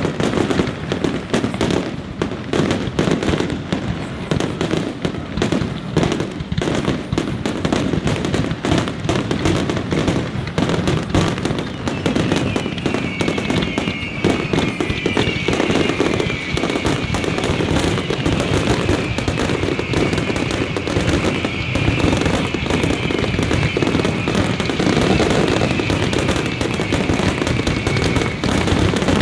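Fireworks display going off in a dense, continuous barrage of bangs and crackling. From about halfway through until near the end, a high, wavering whistle runs over the bangs.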